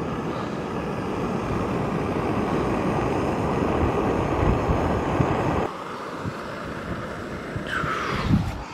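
Gas camping stove burner running with a steady rushing hiss, turned down abruptly a little over halfway through. A brief rising sound near the end.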